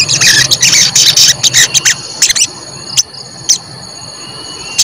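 Sogon bird calling a fast run of sharp 'cuit cuit' chirps, thinning after about two seconds to single chirps spaced out. A steady high whine runs underneath.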